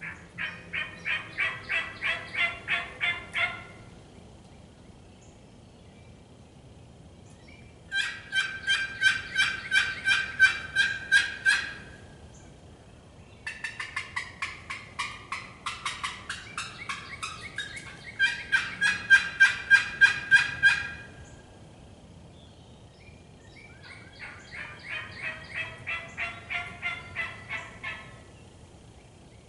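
Turkey yelping: four runs of evenly spaced calls, about three a second, each run a few seconds long with pauses between. The longer third run sounds like two yelping turkeys overlapping.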